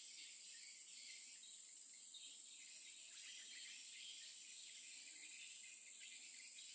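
Faint steady insect chorus: a constant high shrill tone with a fluttering chirring haze above and below it.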